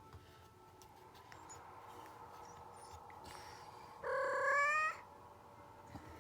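A female cat in heat gives one drawn-out call lasting a bit under a second, about four seconds in, over faint steady background sound.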